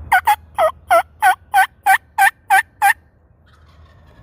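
Turkey hen yelps made on a diaphragm mouth call: a run of about ten loud, evenly spaced notes, about three a second, each breaking down from a higher to a lower pitch.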